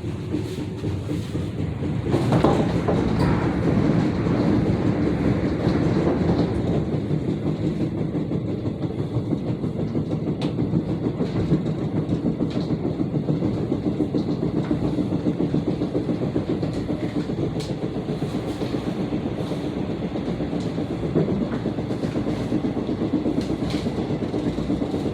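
Gyeongchun Line electric commuter train running on the rails, heard from inside the car: a steady rumble with clickety-clack and a rapid 'tong-tong-tong' thumping from the wheels, which have not been reprofiled. The sound gets louder about two seconds in.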